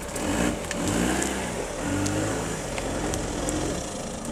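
Off-road vehicle's engine revving up and down in repeated surges.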